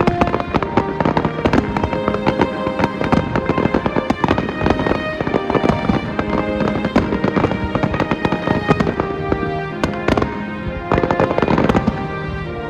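Aerial fireworks going off in rapid succession, a dense run of booms and crackling bursts, over accompanying music with sustained notes.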